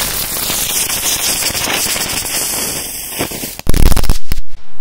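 Small fireworks going off: a dense crackling hiss for about three and a half seconds, then a quick run of very loud bangs, and one more loud burst at the very end.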